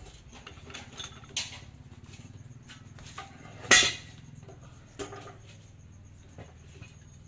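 Metal tools and parts clinking and tapping during work on a hand pallet truck's hydraulic pump, with one louder knock about three and a half seconds in, over a low steady hum.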